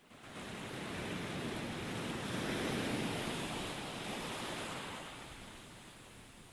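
Recording of an ocean wave: a rushing hiss of surf that starts suddenly, swells to a peak about three seconds in, then washes back down.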